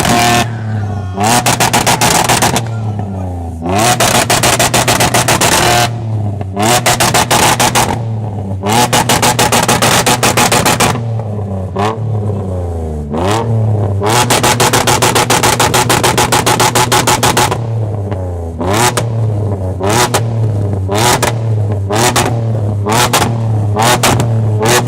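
Car engine revved hard in repeated bursts of a few seconds each. The engine stutters rapidly while held at the top of each burst, and its pitch drops and climbs again between bursts.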